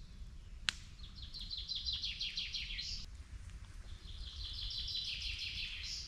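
A songbird singing two phrases, each a rapid trill of about two seconds falling in pitch and ending on a short higher note. A single sharp crack sounds just before the first phrase.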